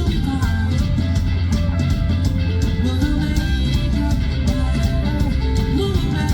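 Rock band playing live: electric guitars over a steady drum beat, with a voice singing.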